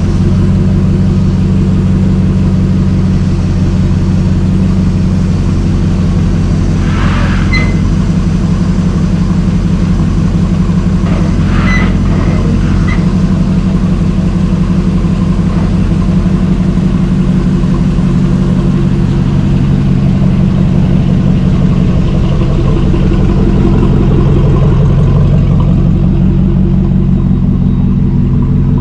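Dodge Ram 1500's 5.7-litre Hemi V8 idling steadily after months of sitting, with a couple of brief scuffing noises about 7 and 12 seconds in.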